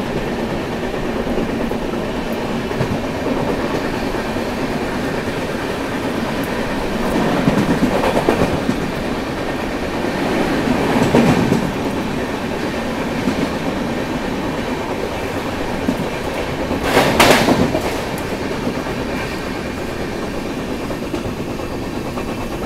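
LHB coaches of the Shivamogga Intercity Express running along the track at speed, heard from on board: a steady running noise of wheels on rails that swells louder a few times, most sharply in a brief surge about three quarters of the way through.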